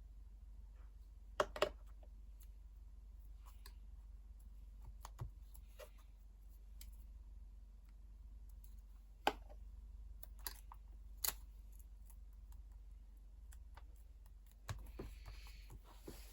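Sparse light clicks and taps from handling planner stationery on a desk: a quick double click about a second and a half in, three single sharp clicks between nine and eleven seconds, and a short scratchy stretch near the end, over a faint low hum.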